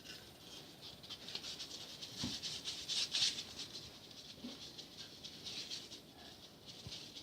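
Polystyrene foam pieces crackling and scratching as they are worked by hand: a rapid, uneven patter of small crisp clicks, loudest about three seconds in, with a couple of soft knocks.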